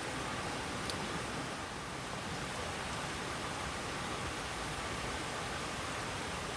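Steady rushing noise of water, even and unbroken, with a faint tick about a second in.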